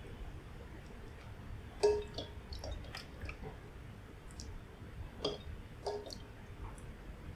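Kitchen food-preparation sounds: a utensil clinking against a dish, sharply about two seconds in and twice more near the end, among small clicking handling noises over a low steady hum.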